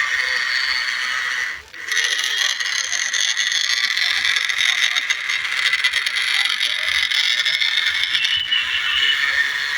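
Small electric motor and gearbox of a remote-control toy tractor whining steadily as it drives through loose soil, with a gritty crackle. It cuts out briefly just under two seconds in, then starts again.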